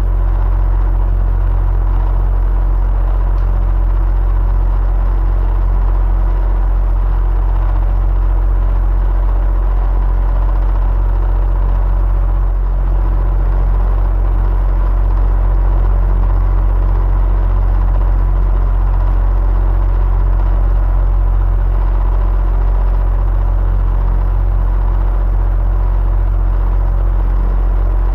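Electric fan running steadily: a deep, even hum with a faint steady whine above it, never changing in level.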